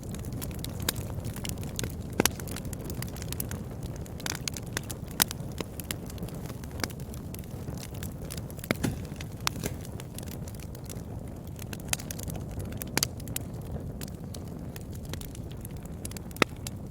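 Wood fire burning in a fireplace, with a steady low rumble and irregular sharp crackles and pops, a few of them louder than the rest.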